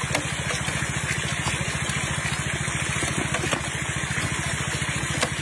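A small engine running steadily, a fast, even, low chugging with no change in speed.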